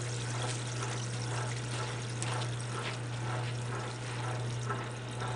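Water from a garden hose pouring into the tub of a wringer washing machine as it fills, a steady splashing rush.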